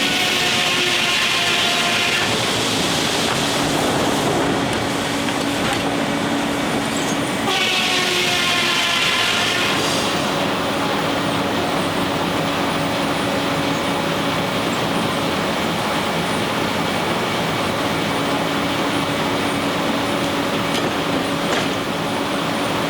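Steam-powered sawmill running with a steady mechanical hum, broken by two shrill high-pitched bursts of about two seconds each, one at the start and one about eight seconds in.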